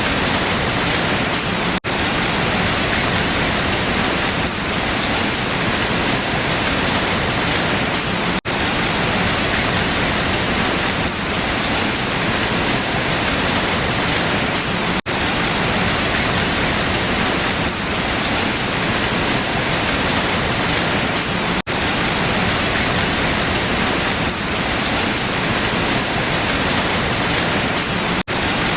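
Steady heavy rain falling on leaves, a dense even patter, with a very brief dropout about every six and a half seconds.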